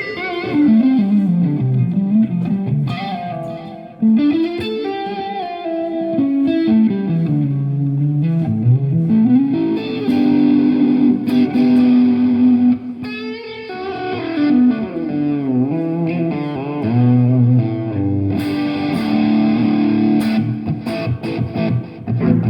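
Electric guitar playing a melodic lead line through an amplifier, with notes gliding up and down in bends and slides and some long held notes.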